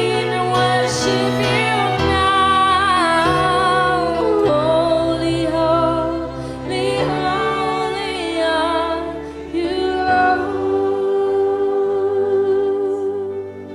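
Live worship music: a woman singing wordless, drawn-out melodic lines over sustained keyboard and string chords.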